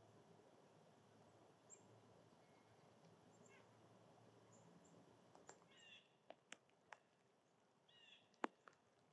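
Faint outdoor ambience with small birds giving short, high chirps, and two brief scratchy calls around six and eight seconds in. Several sharp ticks fall in the second half, the loudest about eight and a half seconds in.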